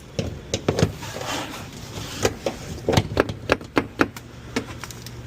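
Mazda CX-50 door trim panel being pried away from the door: an irregular run of sharp plastic clicks and snaps as its retaining clips let go and the panel shifts, with a short scrape about a second in.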